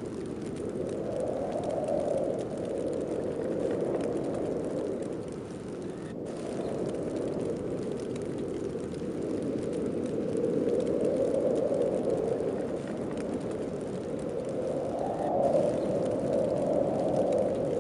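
Snowstorm wind blowing in gusts: a steady rushing that swells and eases every few seconds.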